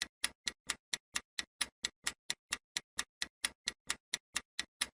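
Countdown-timer sound effect of a ticking clock, sharp even ticks at about four a second.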